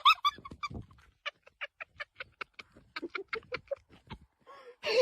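A rapid series of short animal calls, about four or five a second, starting about a second in and stopping shortly before the end.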